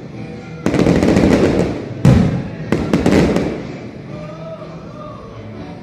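Aerial fireworks going off: four sharp bursts with crackling in the first three and a half seconds, the first two the loudest, then dying away.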